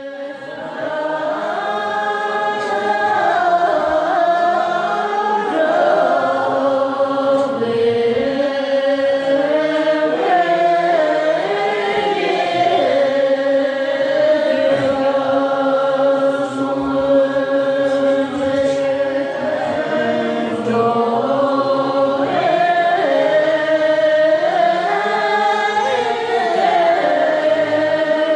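Choral singing: several voices holding long notes in a slow, moving melody.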